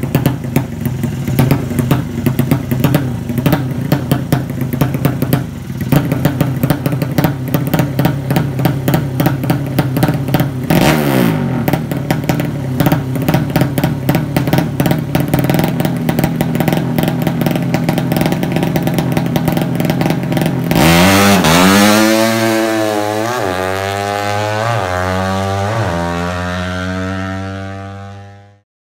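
Drag bike engine running with a rapid firing beat, its pitch dipping briefly and recovering about eleven seconds in. From about twenty seconds in it is revved up and down several times, then fades out near the end.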